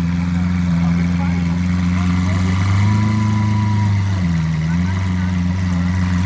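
A car engine idling with a steady low hum. Its pitch steps up a little about three seconds in and dips briefly near four and a half seconds, like light revving off idle.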